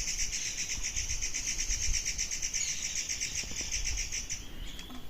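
A steady, high, fast-pulsing trill from a calling animal that breaks off about four and a half seconds in, over a faint low rumble.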